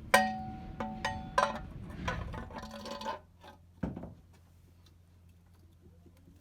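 Metal parts clinking together: three sharp strikes in the first second and a half, each leaving a brief ringing tone, then rattling handling noise and one more knock about four seconds in.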